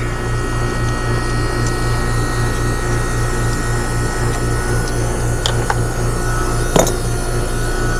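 American Standard heat pump outdoor unit running, its compressor and fan giving a steady hum with a regular throb about four times a second. A single sharp click comes late on.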